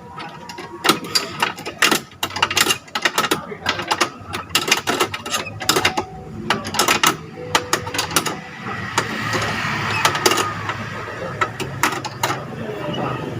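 Quick, irregular metallic clicks and knocks of hand tools and door-handle parts being worked on the car door. About two thirds of the way in, a small engine starts running steadily underneath.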